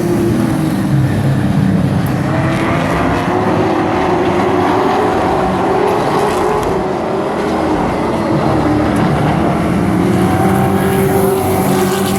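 Several race trucks' engines running hard around a short oval, their pitch rising and falling as they accelerate and lift through the laps.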